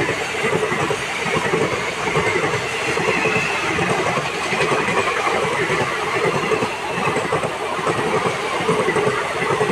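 Passenger coaches of an Indian Railways express train running past at speed: a steady rushing rumble of wheels on the rails, pulsing every half second or so.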